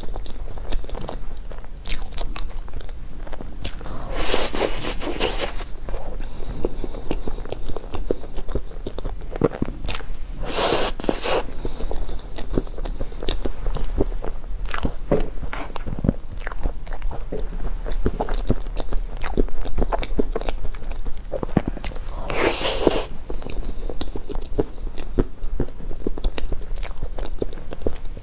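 Close-miked chewing and crunching as a crispy-skinned half-baked cheesecake is eaten, with lots of small mouth clicks and three louder crunchy bites spread through.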